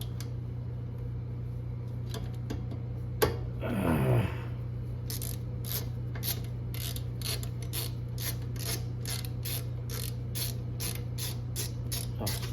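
Hand ratchet wrench clicking in a regular run, about three clicks a second, from about five seconds in. Before it there is a knock and a short falling sound, over a steady low hum.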